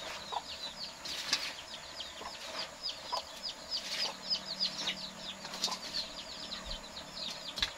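Birds peeping, a quick steady run of short, high, falling chirps, several a second. A few soft rustles and knocks come from kangkong leaves being moved out of a stainless-steel colander into a pan.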